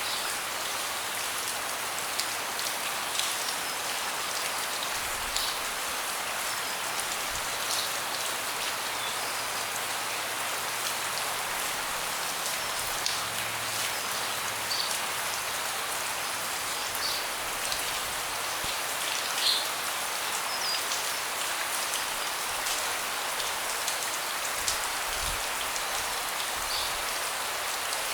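Steady rain falling on a deck: an even hiss of rain with scattered louder individual drops and drips.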